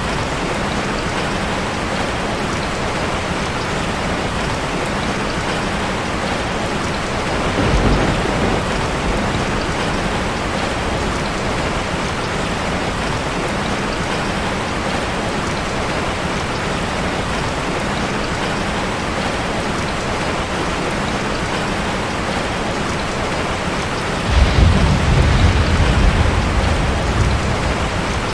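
Steady rain drumming on a metal roof. Thunder rumbles twice: briefly about eight seconds in, then longer and louder near the end.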